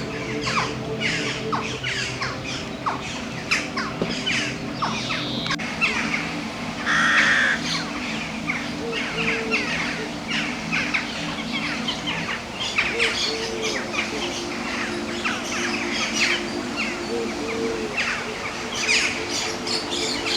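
Many birds calling at once, short sharp chirps and squawks several times a second, with one louder call about seven seconds in. A steady low hum of several tones runs underneath.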